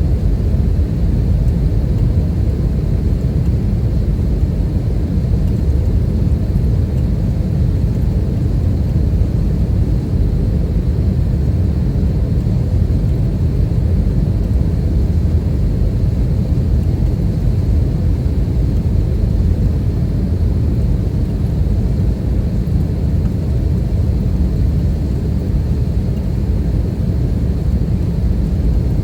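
Steady, loud rumble of an Airbus A320-214 cabin: engine and airflow noise heard from an economy seat, unchanging throughout.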